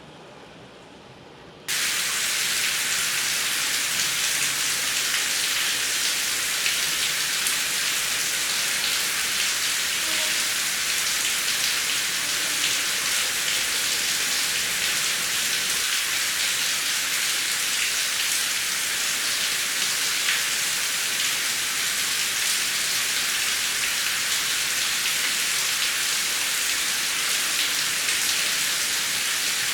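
Heavy rain falling, a dense steady hiss full of fine drop patter that cuts in abruptly about two seconds in, after a quieter, duller rushing noise.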